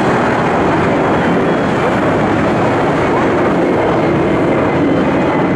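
Twin jet engines of a Boeing 767-300 running at takeoff thrust, a loud, steady, even rush of noise.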